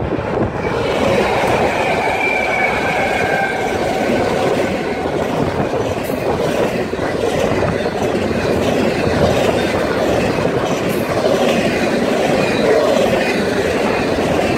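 BNSF double-stack intermodal freight train passing close by: the diesel locomotives go by, then container cars roll past with a steady rumble and clatter of steel wheels on rail. A faint high whine fades out a few seconds in.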